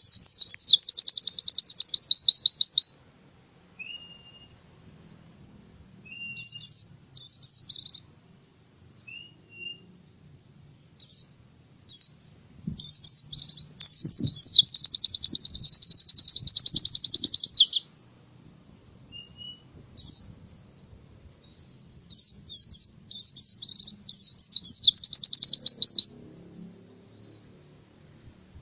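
White-eye (pleci) singing loudly in long, high, rapid trills of fast-repeated notes. Three trills run for several seconds each: at the start, in the middle and near the end. Between them come short bursts of chirps and a few soft single notes.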